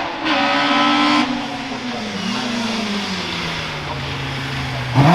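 Hill-climb race car engine, its note falling steadily in pitch as the car comes off the throttle and slows. A loud, harsh stretch of about a second comes near the start, and a sharp rev rises right at the end.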